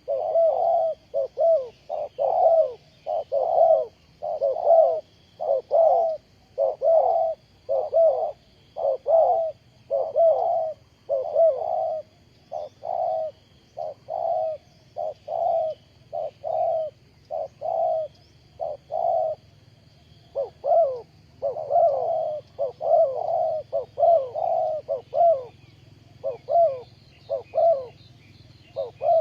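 Spotted dove cooing over and over in short repeated calls, about one to two a second, pausing briefly once. A faint steady high-pitched drone runs underneath.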